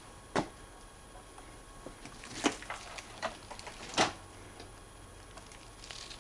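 Several sharp, separate knocks and clicks over a faint steady background, the loudest about two and a half and four seconds in.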